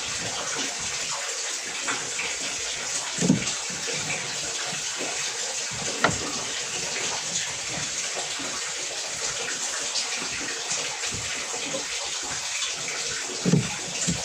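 Water running steadily, with a few knocks from handling about three seconds in, six seconds in and near the end.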